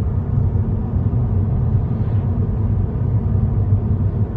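Moving car's steady low road rumble as it drives along.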